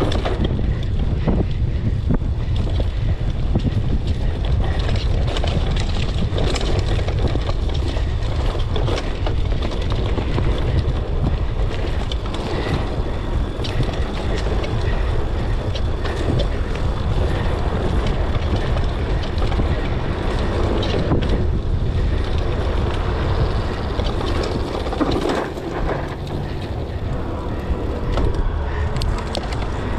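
Wind rushing over the microphone, mixed with the rattle and frequent knocks of a mountain bike riding downhill on a wet dirt trail.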